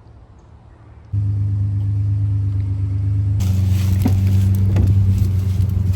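Car engine running, a steady low rumble that starts abruptly about a second in. From about three and a half seconds in, a brighter hiss with scattered clicks rides over it.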